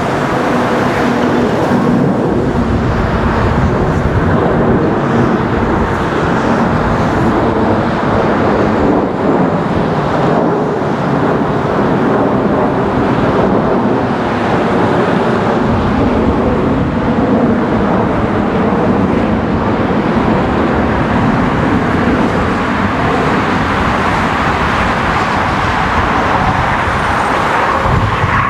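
Jet engines of an Airbus A330-300 airliner, a loud, continuous wash of engine noise with a faint steady hum in the first half.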